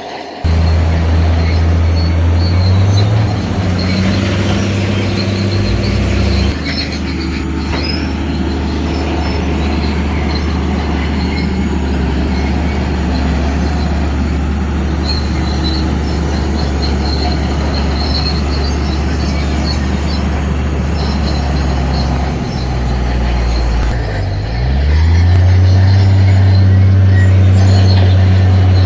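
Shantui crawler bulldozer's diesel engine running hard under load, with metallic squeal and clatter from the steel tracks. The engine note shifts a few times, and near the end it dips and climbs back up.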